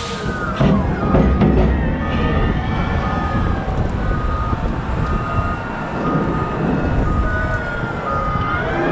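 A heavy wheel loader's diesel engine is running with a deep rumble. Its backup alarm beeps steadily about once a second, and whining tones rise and fall over it as the machine works.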